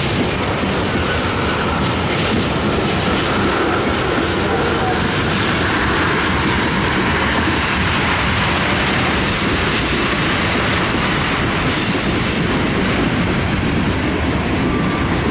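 Freight cars of a CSX train, tank cars and refrigerated boxcars, rolling past close by, with the steady loud noise of steel wheels on rail. A faint thin squeal rises from the wheels at times.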